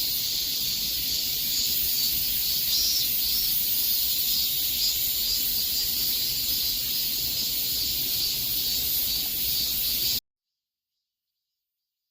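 A chorus of cicadas buzzing steadily in a high, dense hiss with a slight pulsing. It cuts off suddenly about ten seconds in, leaving dead silence.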